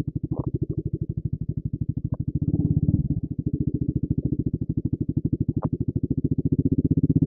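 Bajaj Pulsar RS200's single-cylinder engine idling with an even, rapid putter, swelling briefly about two and a half seconds in.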